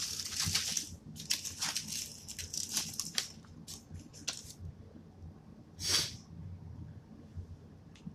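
Close-up mouth sounds of eating a Five Guys bacon burger: wet, crackly chewing and squishing, thickest in the first three seconds, then sparser, with one sharper burst about six seconds in.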